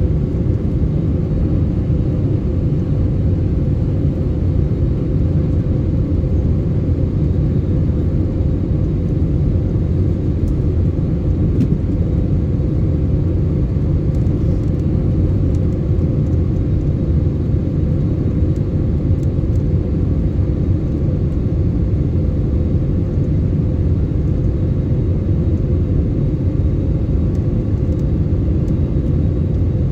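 Steady low rumble of an airliner's engines and rushing air, heard from inside the passenger cabin as the plane comes in to land.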